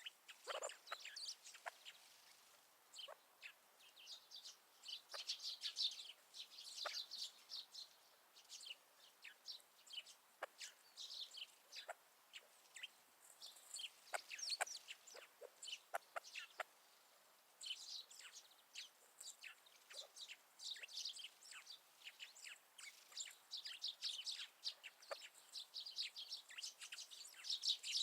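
Wild winter birds chirping and twittering in many quick, high, short notes, mixed with clucking calls from grey partridges.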